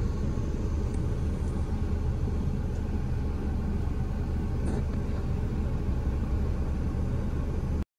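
Car engine idling, a steady low rumble heard from inside the cabin; it cuts off abruptly just before the end.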